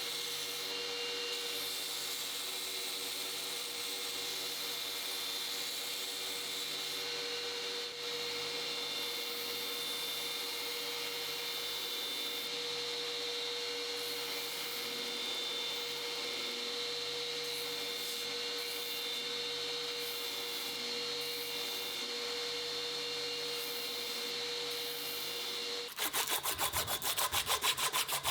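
A small machine runs steadily with a constant hum. About two seconds before the end it gives way to louder rhythmic rubbing strokes, about three a second, as the knife is worked by hand.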